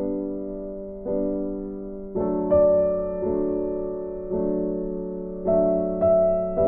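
Slow, gentle piano music: chords struck about once a second, each left to ring and fade.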